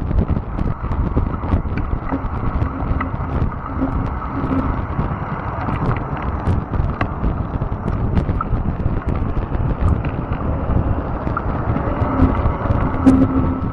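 Fat-tire electric bike riding over a rough, overgrown trail: a steady rumble from the tyres and frame, with many small clicks and knocks and wind on the microphone. A steady hum, likely the electric motor, comes and goes, most plainly near the end.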